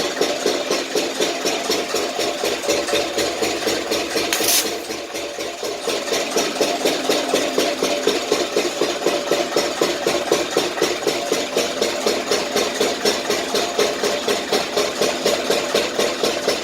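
Engine of a borewell pump set running steadily with an even chugging beat, about four beats a second. A short hiss comes about four and a half seconds in, and the engine is a little quieter for a second or so after it.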